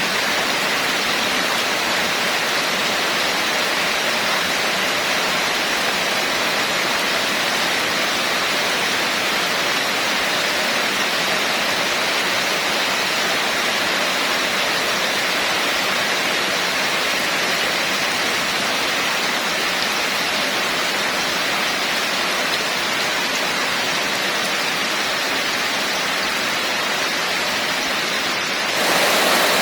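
Steady, heavy rain falling, an even hiss with no let-up. About a second before the end it briefly dips, then comes back slightly louder.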